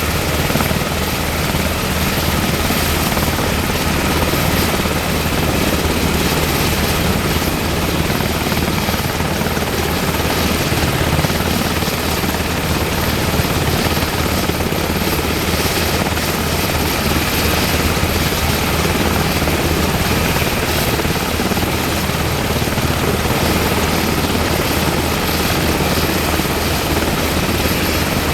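UH-60M Black Hawk helicopter running steadily, its twin turboshaft engines and rotor making a loud, constant noise with a steady high whine on top.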